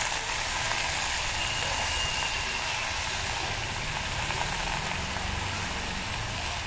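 Sorrel leaves cooking in a pan of hot oil: a steady sizzling hiss over a low rumble.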